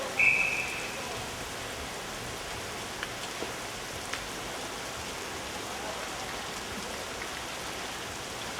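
A short, shrill referee's whistle blast just after the start, then a steady hiss of arena background noise with a few faint clicks.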